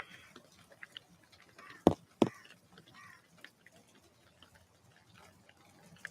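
Two sharp knocks about a third of a second apart at the bird feeder, with faint short bird chirps and light scattered ticking.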